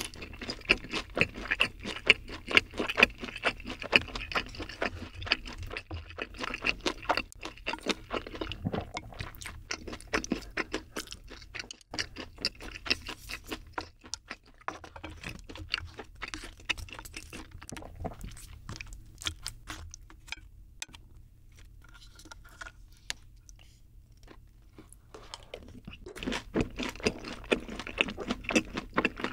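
Close-miked chewing of spicy boneless fried chicken coated in cream sauce, with crunches. It is busiest for the first several seconds, quieter in the middle, and picks up again near the end.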